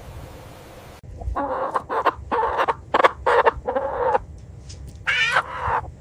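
Domestic chickens clucking: a quick run of short calls starting about a second in, then one longer call near the end.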